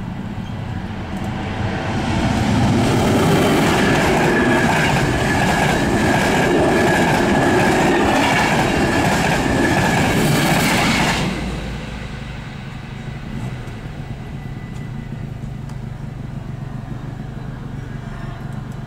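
Passenger train passing over a level crossing: wheels running on the rails swell up about two seconds in, with clacking over the rail joints, and the noise cuts off sharply at about eleven seconds as the train clears. A lower, steady rumble remains after it.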